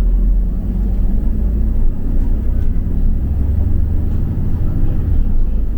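Double-decker bus driving, heard from on board: a steady low rumble of engine and road noise.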